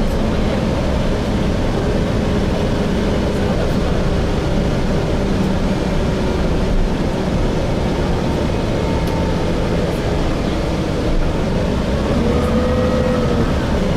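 Gillig Phantom transit bus with a Voith transmission, heard from inside while it runs: a steady rumble of engine and road noise, with a faint whine that drifts in pitch.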